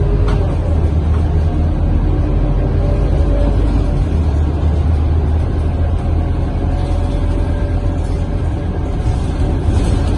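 Scania K230UB bus's diesel engine and drivetrain running while under way, heard from inside the passenger cabin: a steady low rumble with a faint whine that drifts slowly in pitch.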